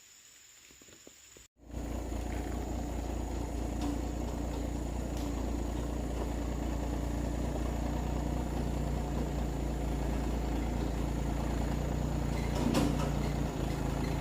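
Faint background, then, after an abrupt cut about a second and a half in, a vehicle engine running steadily at a low, even pitch.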